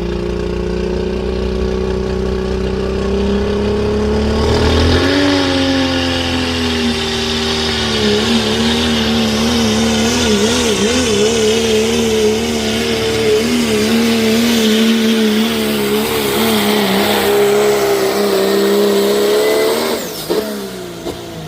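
Pulling truck's engine at full throttle, dragging the weight-transfer sled down the track. The revs climb over the first five seconds, then hold high with a wavering pitch, and the engine is let off about twenty seconds in.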